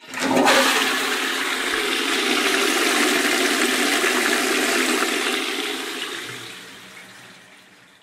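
Water rushing, starting suddenly, running steadily for several seconds, then fading away over the last two or three seconds.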